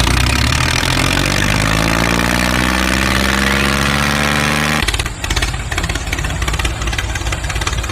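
A small engine revs up, rising in pitch over the first two seconds, then runs at a steady speed. About five seconds in the sound changes abruptly to a rougher, uneven running.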